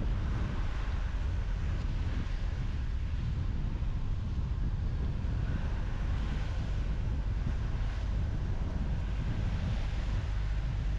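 Steady road noise of a car driving: a low rumble of tyres and wind with no break or change.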